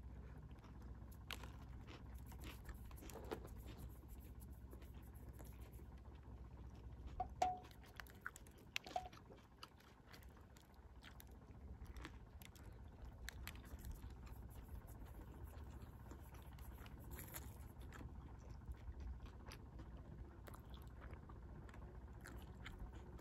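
A person chewing a sandwich full of crisp vegetables, with faint crunches and mouth sounds close to the microphone over a low steady rumble. There are a few louder sharp sounds about seven and nine seconds in.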